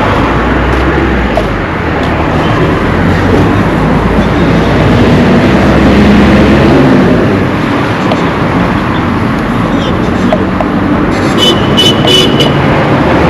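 Road traffic: motor vehicles driving past, the engine noise swelling to its loudest around the middle as one passes close. A few short high beeps come near the end.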